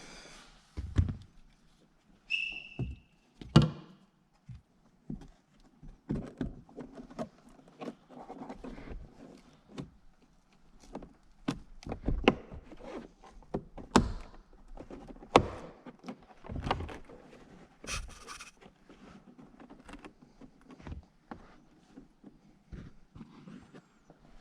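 Scattered knocks and thunks, with rustling and scraping between them, as a car's interior trim is handled and fitted back into place; a brief high squeak about two and a half seconds in.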